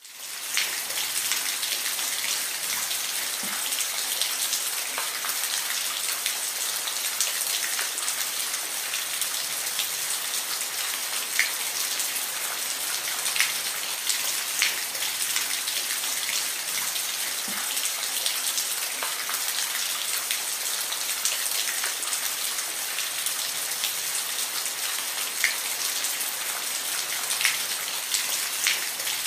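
Steady rain: a dense hiss of falling drops with scattered louder individual drop hits. It fades in at the very start.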